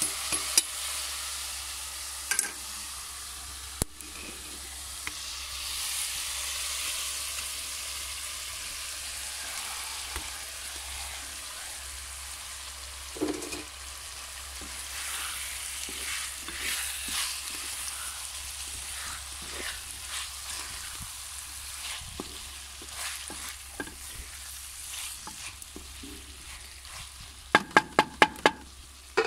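Masala and then okra with onion sizzling in oil in an aluminium pot, stirred and scraped with a wooden spatula. Near the end about six quick, ringing knocks on the pot.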